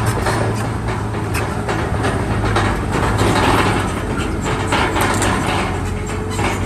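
Bulldozer working: its diesel engine running steadily under the rapid clanking of its steel tracks.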